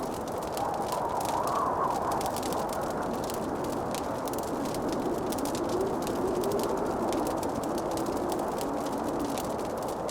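Wood fire in a fireplace crackling, with many small snaps over a steady low rush. A faint wavering tone drifts through, higher about a second in and lower in the second half.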